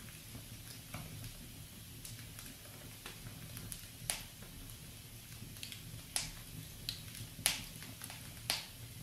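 Wood fire in a fireplace crackling over a low, steady rumble of flames. Small clicks come throughout, and four louder sharp pops are scattered through the second half.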